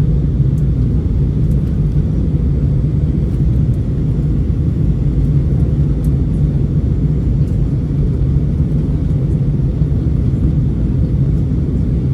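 Steady cabin drone inside an Airbus A321 airliner in flight: jet engine and airflow noise, a deep even rumble with no change in level.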